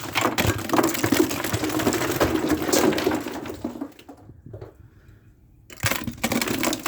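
Icicles being knocked down: a dense clatter of ice cracking and shattering pieces falling for about four seconds, then a short lull and another burst of breaking ice near the end.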